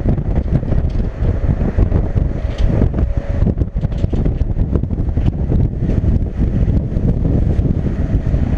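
Wind buffeting the camera's microphone on the open deck of a ferry at sea: a heavy, gusting low rumble.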